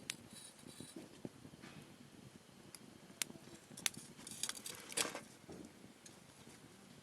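Wood campfire crackling, with a few sharp pops about three, four and five seconds in, the loudest near five seconds.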